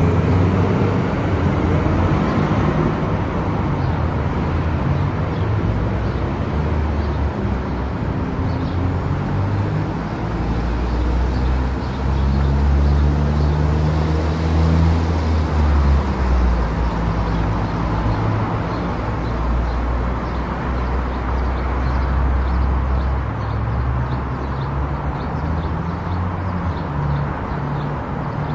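A car driving at highway speed: steady road and tyre noise with a low engine drone. The drone grows louder and shifts in pitch from about twelve to sixteen seconds in.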